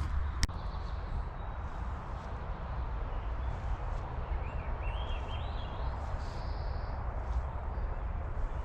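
Footsteps of someone walking a park trail over a steady low rumble of wind, with a bird calling in a quick run of short chirps about halfway through.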